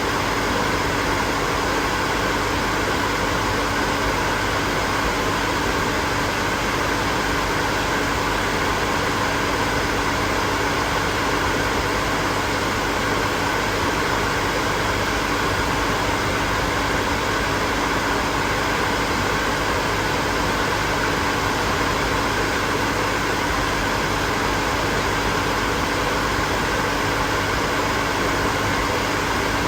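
Hair dryer running steadily: an even rush of blown air with a steady hum from its motor.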